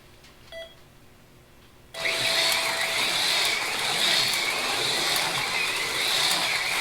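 AFX Mega G+ HO slot cars racing on the track: their small electric motors whine steadily, swelling and easing a little as the cars go round. The whine starts suddenly about two seconds in, as the race resumes.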